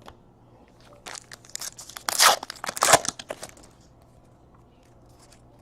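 Foil trading-card pack wrapper crinkling and tearing: a cluster of sharp rustles starting about a second in, loudest a little past two seconds and again near three seconds, then dying away.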